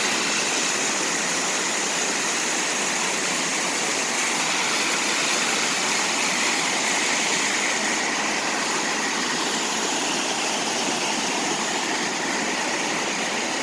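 Rain-swollen waterfall rushing steadily over two rock shelves, an even roar of falling water.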